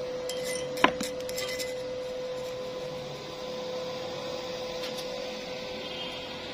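Metal pieces clinking and clanking, with one sharp clank about a second in and a few lighter clinks around it, over a steady electrical hum.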